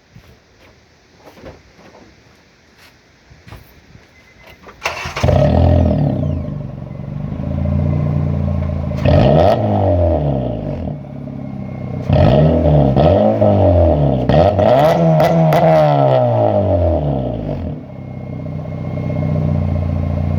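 2008 Honda Civic's 1.8-litre four-cylinder engine starting about five seconds in, heard through an aftermarket DNO cat-back exhaust. It idles, is revved up and down several times, then settles back to idle near the end.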